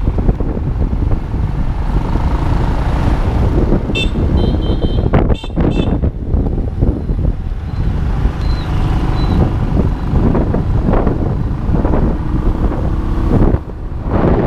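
Motorbike ride through town traffic: steady engine and road noise, with a few short high-pitched beeps at about four seconds in and again around five and a half seconds.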